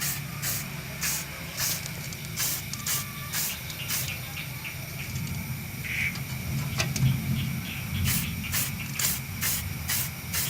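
Aerosol spray-paint can sprayed in short repeated bursts, about two a second, with a steady low hum underneath.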